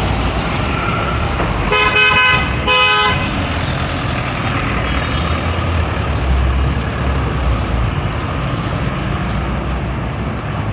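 Vehicle horn honking twice in quick succession about two seconds in, over a steady rumble of truck engines and city traffic.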